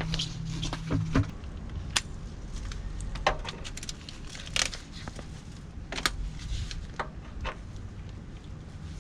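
Scattered sharp metallic clicks and knocks, like tools and parts being handled on a vehicle. A low steady hum stops about a second in.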